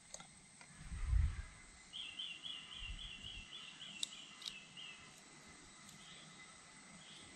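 A bird calling a quick run of about ten repeated chirping notes, about three a second, over a steady high drone of insects. A low thump on the microphone about a second in is the loudest moment, and two sharp ticks come midway.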